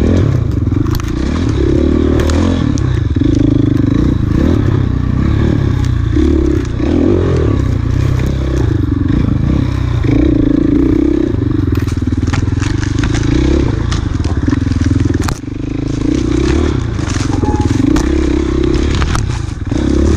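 Enduro dirt bike engine running hard on a trail, its revs rising and falling every second or so with gear changes and throttle, with scattered knocks and clatter from the bike over rough ground.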